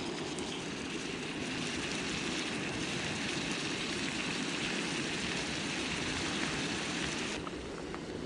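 Seafood mix and vegetables sizzling as they stir-fry in a pan, a steady hiss. It cuts off abruptly about seven seconds in, leaving quieter wind and surf.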